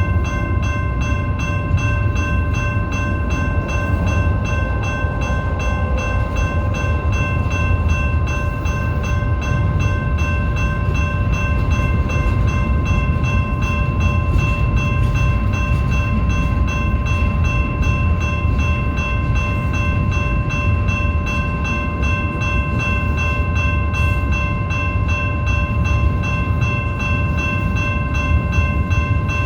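BNSF freight train rolling past at close range: a steady low rumble of wheels on rail, with a steady high-pitched whine held over it.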